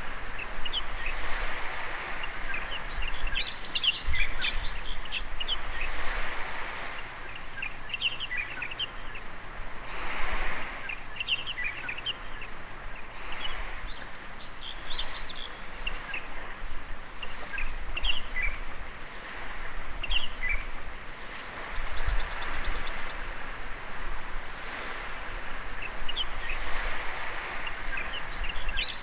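Small birds chirping and twittering over the wash of waves on a beach, with a quick high trill a little past the three-quarter mark.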